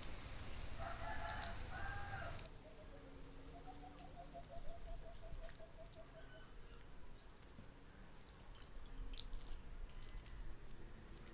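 Background bird calls with a fowl-like quality: two short calls in the first couple of seconds, then a quick even run of about a dozen notes, about six a second. Faint crackling clicks of eggshell as soft-boiled eggs are peeled by hand are heard throughout.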